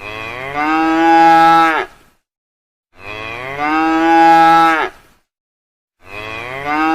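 Cow mooing three times: each moo is a long call of about two seconds, and the calls start about three seconds apart. The three calls have the same shape, the same moo played over again.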